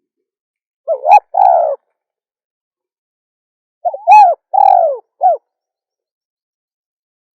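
Female spotted dove cooing: two short phrases, the first of three notes about a second in, the second of four notes about four seconds in, with silence between.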